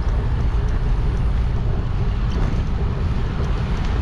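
Wind rushing over a bike-mounted GoPro's microphone while cycling, a steady low rumble with road noise beneath.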